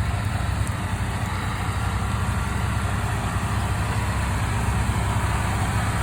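An engine running steadily at idle: an even, low-pitched hum.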